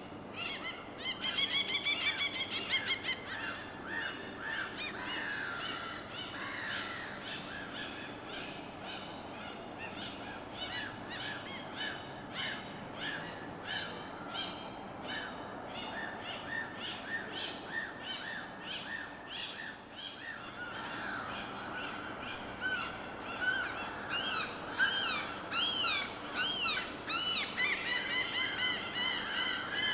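A chorus of birds calling and chirping, with many short repeated notes, over a soft steady wash of water. A louder run of rapid calls comes about a second in, and higher arching calls come near the end.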